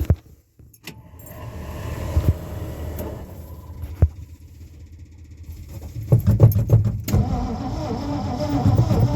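Cold start of a worn-out car engine: after a click, the starter turns it over, and about six seconds in it catches and keeps running.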